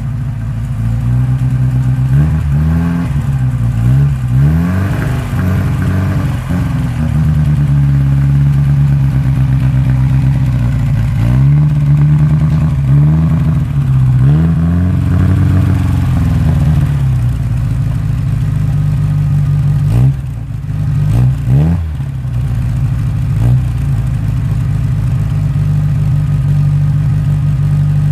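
A 1960 Moskvitch 407's four-cylinder petrol engine, still cold after a winter start at −10 °C, is revved in repeated short blips that rise and fall in pitch. After about 17 seconds it settles to a steady fast idle, with a brief dip and a couple of quick blips a few seconds later.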